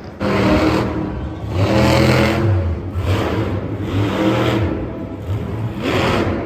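Engine revving in repeated surges, rising and falling several times.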